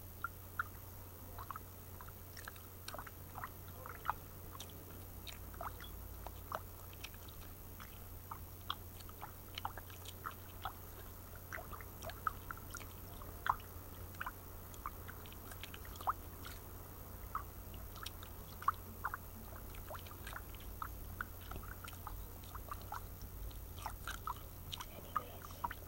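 Chewing gum worked close to the microphone: irregular wet clicks and smacks, a few each second.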